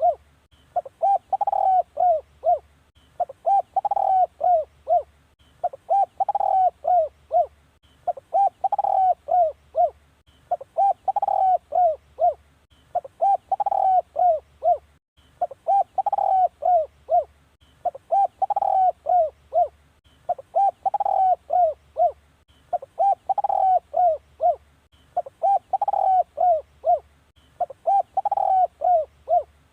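Spotted dove cooing, a decoy call used to lure wild doves: the same phrase of several quick coos repeats evenly, about every two and a half seconds.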